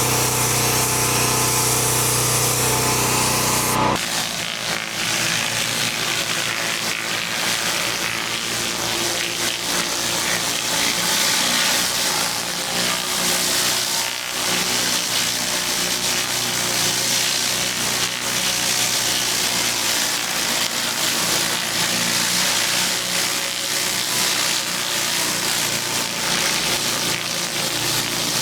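Gas pressure washer engine running steadily under a hissing water spray. After an abrupt change about four seconds in, the high-pitched hiss of the spray jet dominates and the engine is much fainter.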